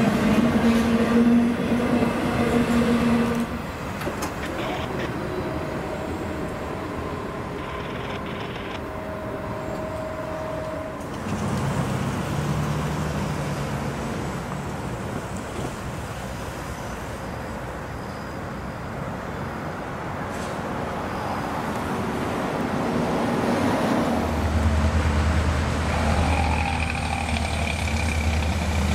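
A double-stack container freight train rolls past at a grade crossing for the first few seconds. After a cut, a diesel freight locomotive approaches, its engine rumble growing louder over the last few seconds, with a thin high squeal near the end.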